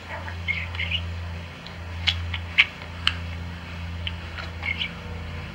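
Pet budgerigar giving short soft chirps and a few sharp clicks, three clicks in quick succession near the middle, over a steady low hum.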